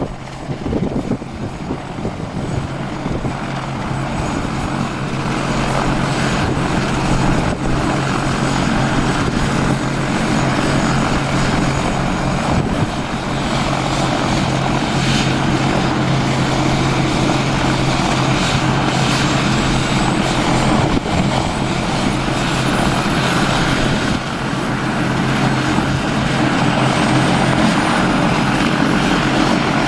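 Medical helicopter running up for takeoff: a steady, loud rotor and turbine drone with a thin high turbine whine that climbs in pitch from about two-thirds of the way in. The sound swells over the first few seconds and grows louder again near the end.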